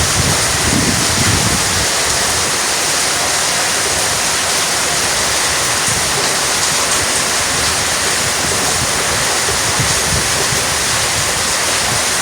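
Heavy downpour of rain: a steady, dense hiss.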